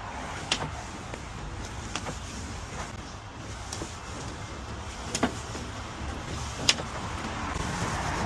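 Car wash machinery heard from inside a car: a steady low rumble, broken by a few sharp knocks against the body, the loudest about half a second in and twice more near the end.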